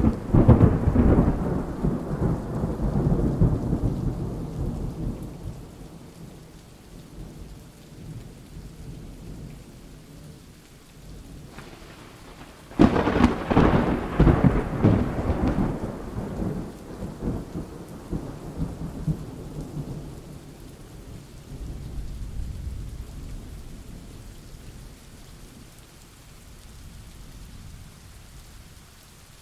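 Thunderstorm: a thunderclap right at the start that rumbles and slowly fades over several seconds, then a second clap about halfway through that rolls on and dies away, over steady rain.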